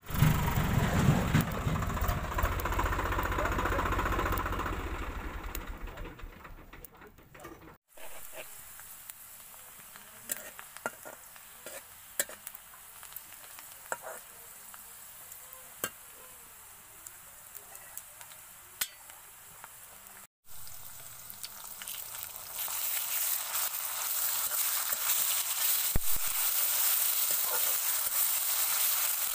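A tractor's engine runs loud, fading away over the first several seconds. Then sliced onions frying in a steel kadai over a wood fire, with a metal spatula scraping and tapping the pan as they are stirred; the sizzle gets louder about two-thirds of the way through.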